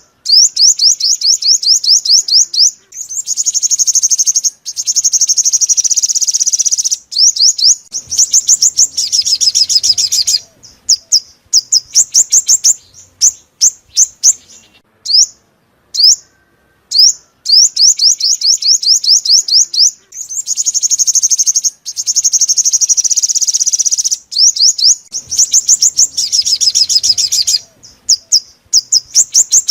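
Five-colour sunbird song: rapid trills of high, thin, downward-sweeping notes in phrases of a few seconds, separated by short gaps. The same sequence repeats about every sixteen seconds, as a looped recording does.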